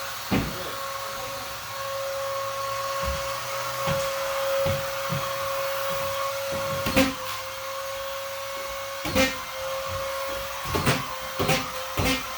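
Vacuum cleaner motor running with a steady whine over a hiss, broken by about six sharp knocks, the loudest about seven seconds in.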